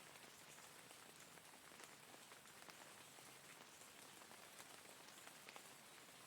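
Faint, steady rain falling, with many small drops ticking.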